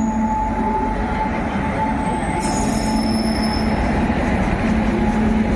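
Express train hauled by a WAP7 electric locomotive rolling past as it arrives at the platform: a steady rumble of wheels on rail, with a high squeal starting about two and a half seconds in.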